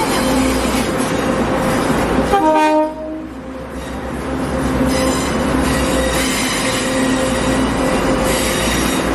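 Train running, with a short horn blast about two and a half seconds in, after which the rumble drops and slowly builds again.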